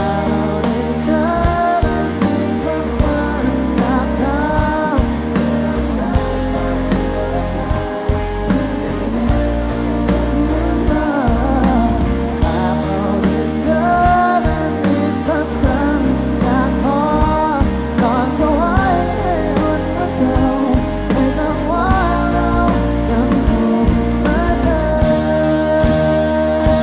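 Live pop-rock band playing an instrumental passage of a slow, sad song: a steady bass and drum bed under a melodic lead line with bending, gliding notes.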